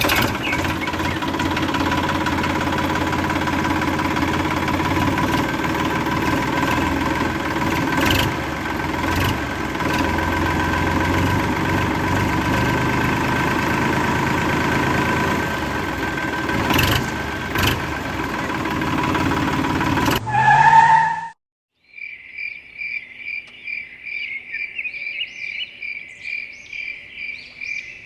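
The small motor of a DIY toy tractor runs with a steady whine for about twenty seconds, then stops abruptly. After that, crickets chirp in a fast, even rhythm.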